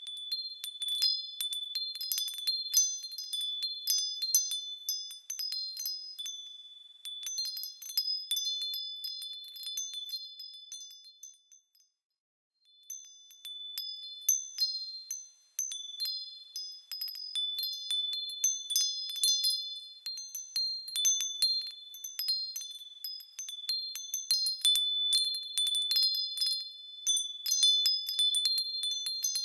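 Small high-pitched bells swinging and ringing in quick, overlapping, tinkling strikes with lingering tones. The ringing dies away to a brief silence about twelve seconds in, then starts again.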